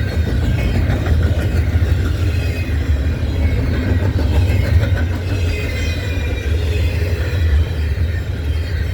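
Norfolk Southern freight train rolling past: a steady low rumble of cars and wheels on the rails, with faint high wavering tones over it.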